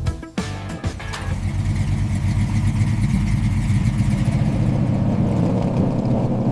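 Classic car's engine running steadily, slowly getting louder, after music fades out in the first second or so.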